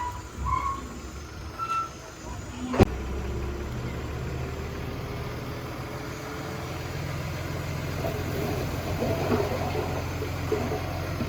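Heavy machine's diesel engine running steadily after a sharp knock about three seconds in, with some crackling near the end.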